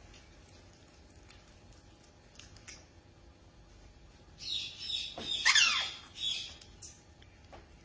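Parrot squawking about halfway in: a loud, harsh call with falling pitch, then a shorter call.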